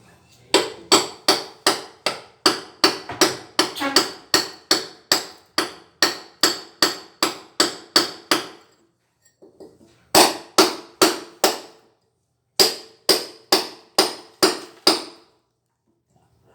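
Hammer blows on a chisel, chipping out damaged wall tiles and the mortar behind them: a fast run of strikes at about three a second, then after a pause two shorter runs, each blow with a short metallic ring.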